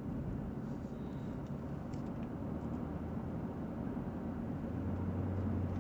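Steady low road and engine rumble heard inside a moving car's cabin, with a low hum that grows a little stronger near the end.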